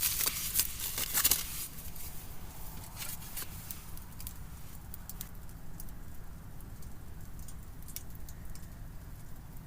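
Leftover meat and green onions cooking in a pan, with scattered crackles and pops of spitting fat over a low steady rumble. A loud noisy rustle fills the first second or so.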